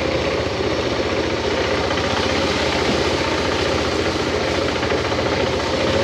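Motorcycle engine running steadily at a constant speed, with a fast, even pulse of firing strokes.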